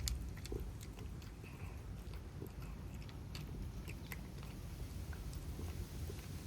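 Cats eating, with scattered small crunching and chewing clicks over a low steady rumble.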